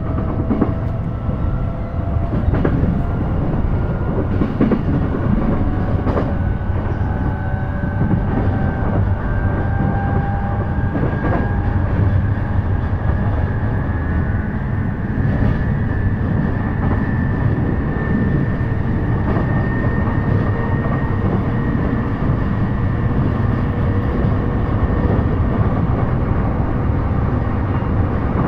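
Interior running sound of a JR East E233 series electric train at speed: a steady rumble of wheels on rail, with a faint whine slowly rising in pitch and a few scattered clicks from the track, mostly in the first half.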